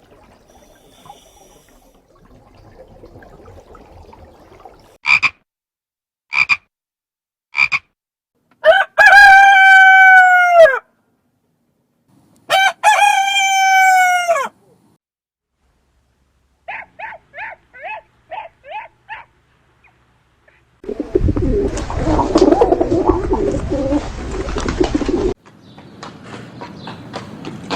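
A string of separate animal calls. First three short calls, then a rooster crowing twice, each crow about two seconds long and dropping in pitch at the end. Then a quick run of about eight short croaking calls, and finally a loud, rough, noisy sound lasting about four seconds.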